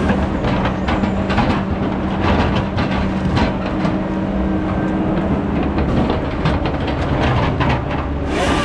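Heavy logging machinery running steadily with a low engine drone, and irregular clanks and knocks throughout.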